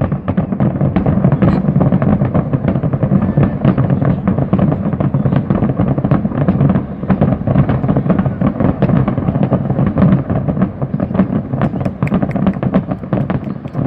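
Fireworks finale barrage: a dense, continuous rattle of rapid bangs and crackles, with sharper cracks near the end.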